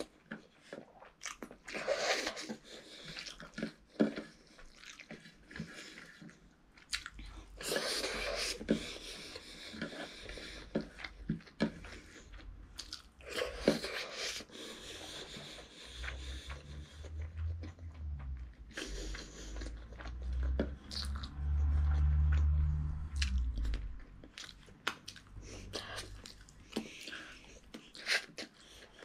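A boy chewing mouthfuls of rice and chicken curry eaten by hand, with wet chewing sounds and many small clicks as his fingers scoop rice off the plate. About halfway through, a low hum comes in underneath for several seconds and is loudest shortly before it stops.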